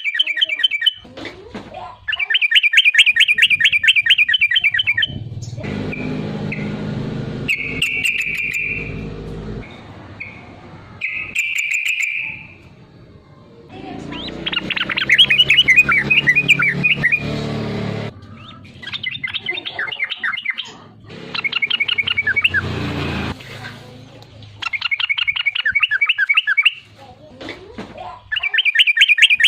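Yellow-vented bulbul singing: loud bursts of rapid, bubbly chattering notes, each phrase one to three seconds long, repeated over and over with short pauses. A low background noise sits under several phrases in the middle.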